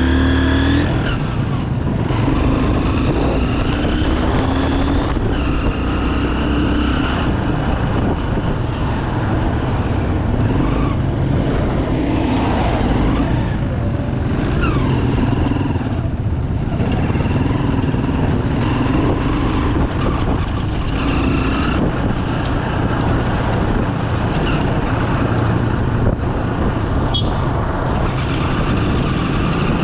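Bajaj Pulsar 200 motorcycle's single-cylinder engine running on the move, its pitch rising and falling again and again with the throttle.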